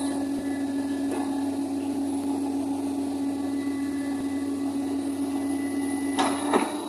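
Heavy construction machine, such as an excavator, running steadily with a constant engine hum; a short burst of clattering comes near the end.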